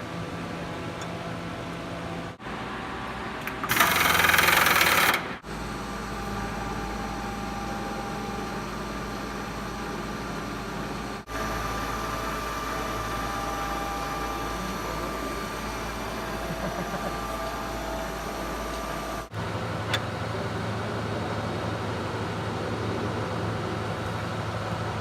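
CNC milling machine running its program: a steady low hum and faint whining tones from the spindle and drives. About four seconds in, a loud hiss lasts a second and a half. The sound changes abruptly several times.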